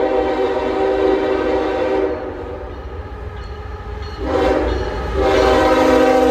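Horn of a CSX freight locomotive blowing: a long blast, a break of about two seconds, a short blast, then another long blast, over the rumble of the train.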